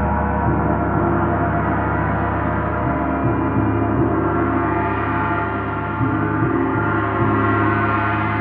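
Gong being played continuously: a loud, sustained wash of many overlapping ringing tones with a deep hum underneath.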